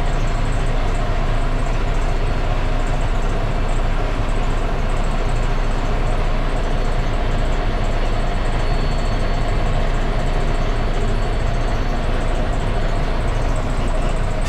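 Semi truck's diesel engine running steadily, heard from inside the cab while the rig is eased into a parking spot.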